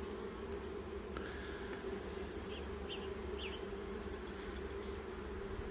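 A honeybee colony in an open hive buzzing with a steady, even hum. A few faint, short high squeaks come about two and a half to three and a half seconds in.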